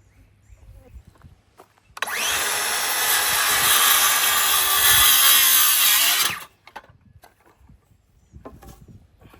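Power saw cutting through a wooden board, a steady cut of about four seconds that starts suddenly a couple of seconds in and cuts off abruptly. Light knocks and clicks of handling lumber before and after.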